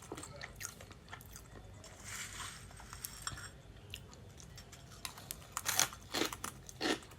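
Green parrot crunching and nibbling food with its beak: scattered small crackling bites, coming faster and louder near the end.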